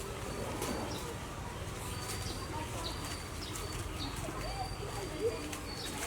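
Birds calling: thin, high whistled notes repeating throughout, with short, lower, bending calls in the second half.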